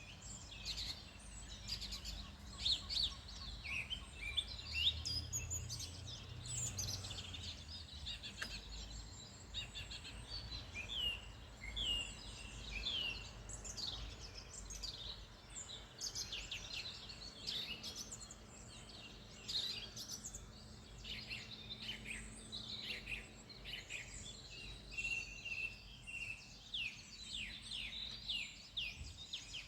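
Several wild birds chirping and singing continuously, many short overlapping high calls and trills, over a steady low rumble.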